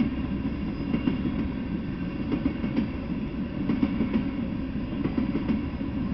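Freight train of tank cars rolling past: a steady rumble of steel wheels on the rails, with scattered faint clacks.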